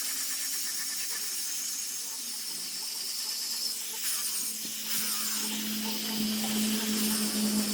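Steady high hiss of a power tool working wood, with a low hum that grows louder about two-thirds of the way in.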